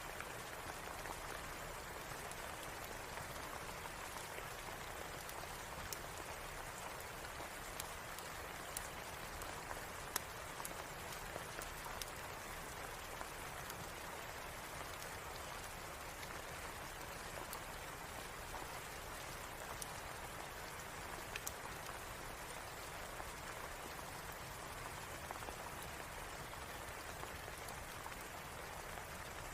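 Steady rain falling, an even hiss, with scattered sharp ticks and pops sprinkled through it.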